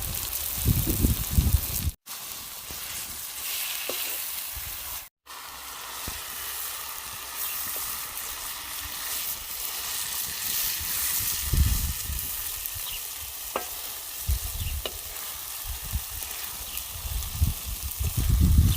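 Food frying in hot oil, a steady sizzle, with occasional low knocks from stirring or handling the pot.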